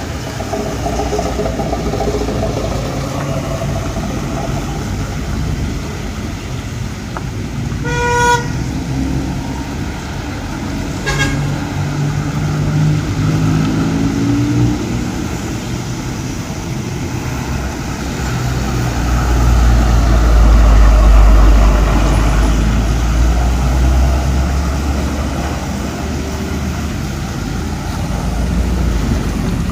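Road traffic passing on a bend: cars and trucks running by, with a short car-horn toot about eight seconds in and a briefer one about three seconds later. One engine rises in pitch as it pulls away, and a heavy vehicle's low rumble swells to the loudest point about two-thirds of the way through.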